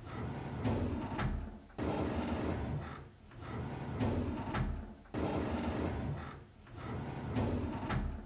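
A drawer being slid open on its runners, over and over, with a sliding rumble that starts suddenly and fades out. It repeats about every three seconds.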